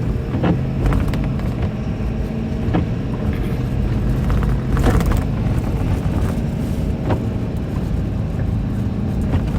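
Steady engine and road rumble heard from inside a moving truck's cabin, with a light knock about every two seconds.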